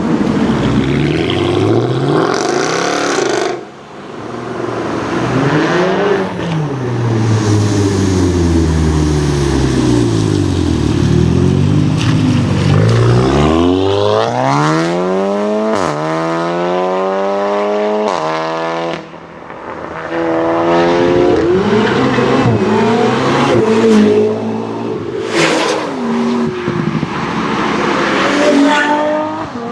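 High-performance car engines revving and accelerating, the pitch swinging up and down with the throttle. Around the middle one engine climbs steadily in pitch and drops sharply twice at gear changes. A few sharp cracks come near the end.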